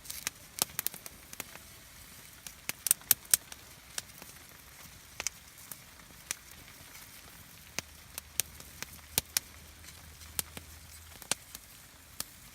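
Wood campfire crackling, with sharp pops at irregular intervals and a quick cluster of them about three seconds in.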